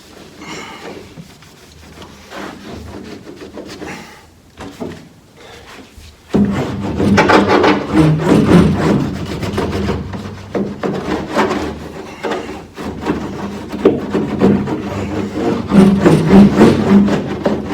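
Rubbing and scraping as a foil-backed KILMAT sound-deadening sheet is pressed and smoothed onto the pickup cab's sheet metal. About six seconds in, louder background music starts and carries on over it.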